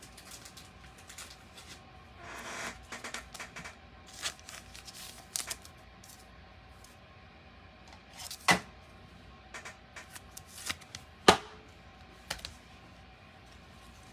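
Trading cards and pack wrappers being handled: scattered clicks, a rustle about two seconds in, and two sharp snaps near the middle and about three seconds later.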